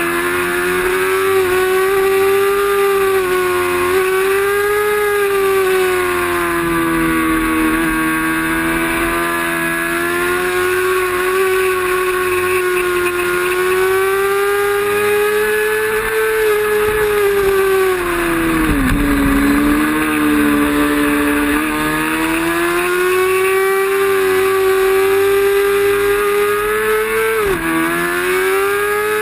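Racing motorcycle engine held at high revs, its pitch rising and falling through the gears. About nineteen seconds in the revs sweep down steeply, as when braking and downshifting, then climb again. A quick drop near the end marks a gear change.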